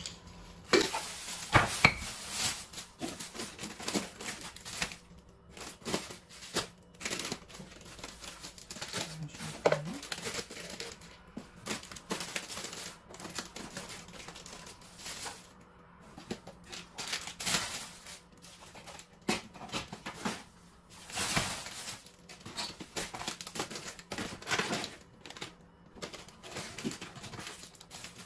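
Plastic food packets crinkling and rustling as they are handled, in irregular bursts with short sharp knocks and clicks between them.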